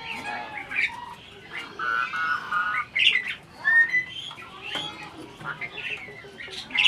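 Asian pied starling (jalak suren) chattering: a continuous, varied run of squawks, chirps and short whistles, with a few pitched, buzzy notes and a rising whistle near the middle.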